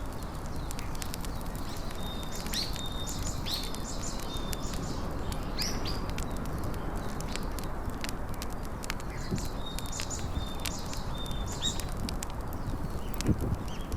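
Small birds chirping in short repeated phrases, twice in clusters, over a steady low outdoor background noise, with scattered faint clicks and a soft low thump near the end.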